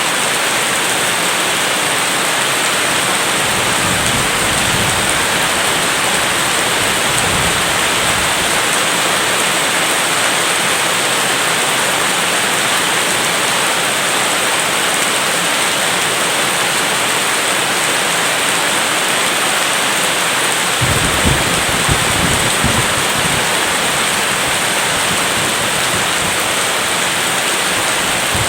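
Steady heavy rain, with low thunder rumbling faintly about four and eight seconds in and a louder rumble of thunder about twenty seconds in.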